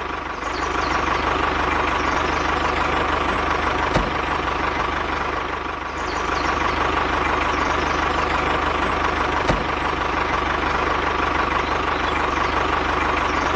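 A machine running steadily: an even, engine-like chug with a steady whine over it, and a sharp click about four seconds in and again near ten seconds.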